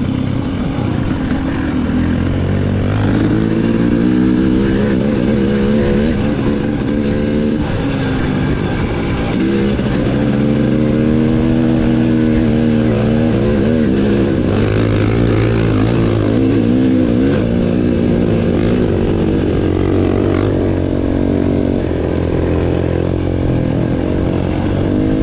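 Dirt bike engine running continuously, its pitch rising and falling again and again as the throttle is opened and closed.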